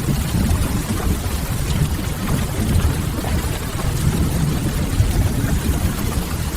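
Ambience of steady rain against a window mixed with a crackling wood fire: a constant low rumble and hiss with faint scattered crackles and drips.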